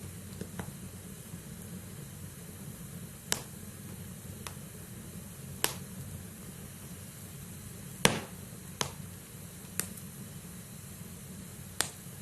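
Wood fire burning in a fireplace: a steady low rumble and hiss with sharp pops and crackles from the burning logs every second or two. The loudest pop comes about eight seconds in.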